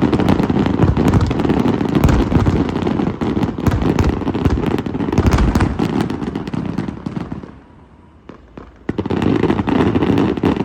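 Aerial fireworks display: a dense barrage of booming bursts and crackling. It drops away about seven and a half seconds in and starts up again a second and a half later.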